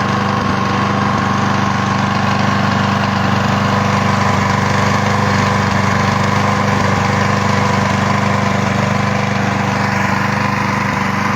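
Restored Gardener lawnmower's small petrol engine running steadily at an even speed.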